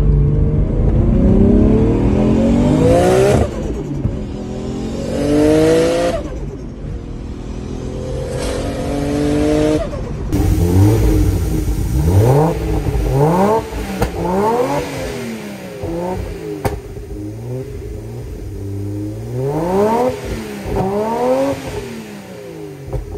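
Nissan R33 Skyline GT-R's RB26 twin-turbo straight-six on its Kakimoto exhaust. For the first ten seconds it pulls hard, rising in pitch three times with a sudden drop between pulls. Then it is revved in a series of quick blips. Engine and turbo noise stand out more than the exhaust note, which is too quiet for the owner.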